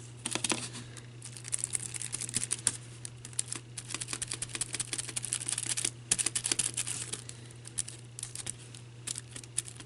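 Brush dabbing Mod Podge over a paper-napkin motif on an ornament: rapid, irregular light ticks and soft crinkling of the damp tissue, over a steady low electrical hum.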